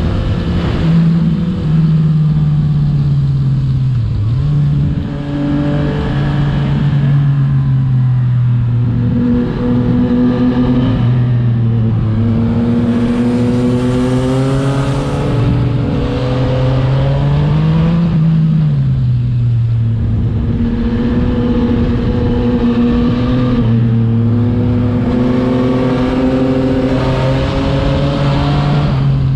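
Yamaha MT-09/FZ-09 847cc inline-three with an Akrapovič exhaust, ridden hard: the exhaust note climbs with the revs and drops sharply at each gear change or roll-off, again and again, over steady wind noise.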